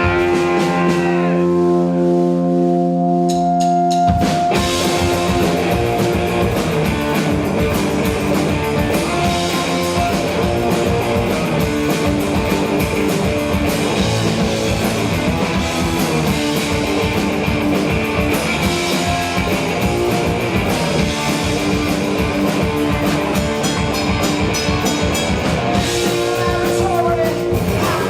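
Live rock band: a guitar rings out held notes, then the drums and full band crash in about four seconds in and play on at a driving pace.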